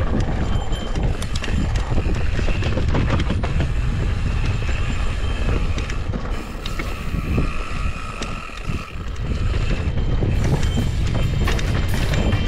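Mountain bike being ridden over rough trail: a steady rumble of wind across the handlebar camera's microphone, with rattles and knocks from the bike over rocks. A faint steady whine comes in about halfway through.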